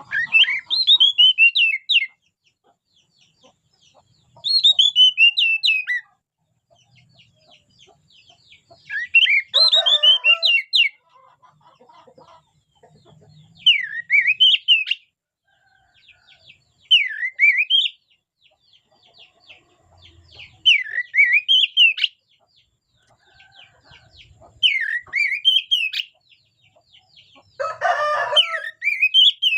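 Oriental magpie-robin (kacer) singing vigorously in loud, repeated whistled phrases, each a quick run of sweeping notes about two seconds long, given every three to four seconds. Under two of the phrases, one about ten seconds in and one near the end, a lower, rougher call joins in.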